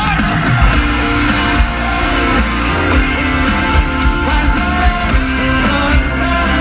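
Live rock band playing loudly, with drums keeping a steady beat under guitar and bass.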